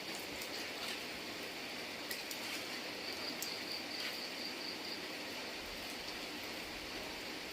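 Steady rain falling, an even hiss with scattered clicks of drops. A thin, high insect trill comes and goes over it.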